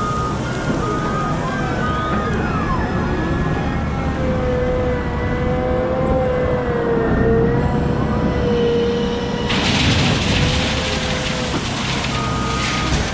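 A Caterpillar 972M XE wheel loader's diesel engine works under load with a steady low rumble. A whine rises and falls over it, then holds a steady pitch for several seconds. Near the end a broad hissing rush comes in, and reversing beeps start.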